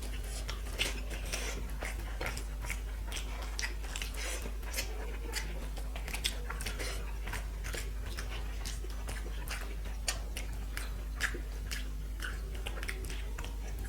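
Close-up chewing and eating sounds from a rice-and-curry meal: irregular wet clicks and smacks of mouth and food, with an occasional crunch, over a faint steady hum.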